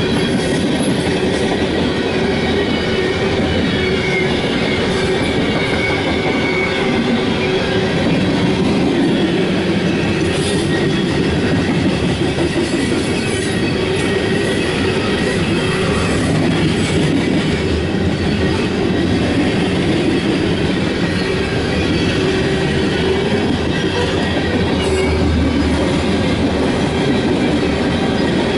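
Loaded coal cars of a freight train rolling steadily past a grade crossing, steel wheels running over the rails.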